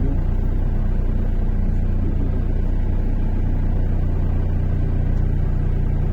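MAZ-103.485 city bus heard from inside the passenger cabin while driving, its engine and road noise making a steady low rumble.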